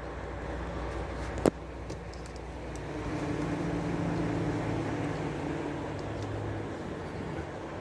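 Heavy truck idling with a steady low hum, and a single sharp knock about a second and a half in.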